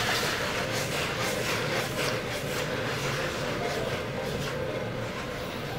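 Cuttlefish and vegetable stir-fry sizzling steadily in a wok over a gas burner.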